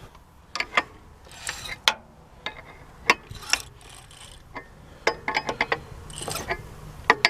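A freed-up, formerly seized Ford truck engine being turned over by hand with a wrench: irregular clicks, squeaks and short scrapes as the remains of broken piston rings drag in the cylinders.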